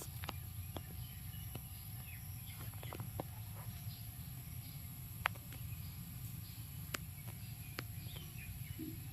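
Faint outdoor ambience: a steady low rumble with scattered short chirps and several sharp clicks, the loudest about five seconds in.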